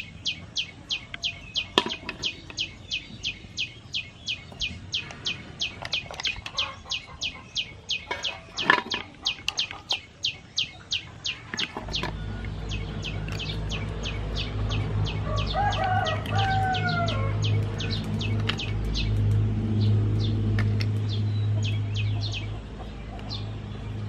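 A bird chirping over and over, about four short high chirps a second, with a few sharp knocks in the first half. About halfway a low steady rumble comes in, and a chicken calls briefly a little after the middle.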